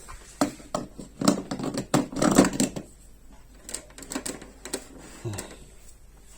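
Parts of an espresso machine being fitted back into place by hand: a run of clicks, knocks and clatter, busiest in the first three seconds, then a few scattered clicks.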